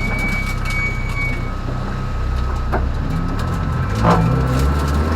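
Peugeot rally car's engine heard from inside the cabin, running low at first, then revving up in several rising steps from about three seconds in, with a short knock about four seconds in.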